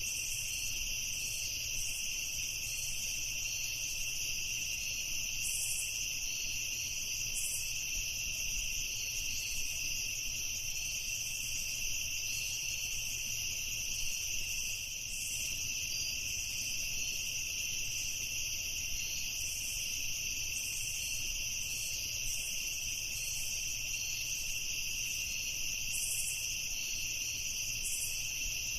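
Crickets chirping in a steady, unbroken high-pitched chorus, with a faint low rumble underneath.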